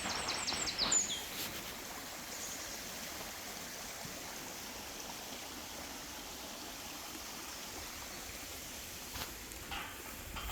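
A stream running steadily, a constant rush of water. A songbird's rapid run of high repeated notes ends about a second in.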